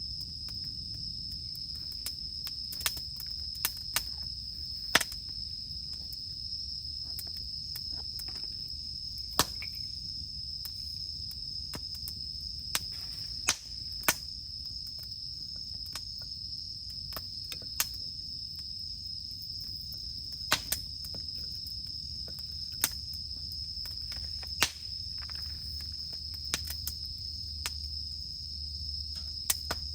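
Campfire wood crackling, with sharp, irregular pops every second or two, under a steady, high-pitched drone of cicadas singing.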